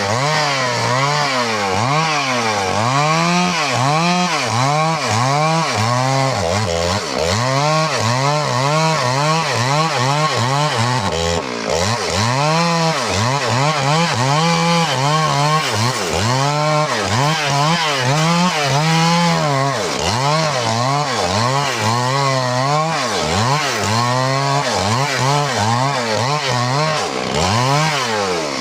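Stihl MS 382 two-stroke chainsaw cutting wood at full throttle, its engine speed rising and falling over and over, about once or twice a second.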